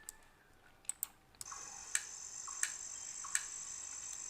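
Forest insect sound effect playing back: a steady high-pitched insect buzz that starts about a second and a half in, broken by sharp clicks at regular intervals. A couple of separate clicks come before it.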